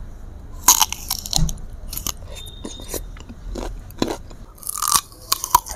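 Crisp bites into raw green mango slices and close-up crunching and chewing of the firm fruit. A loud crunch comes about a second in, with scattered crunches after and a burst of them near the end.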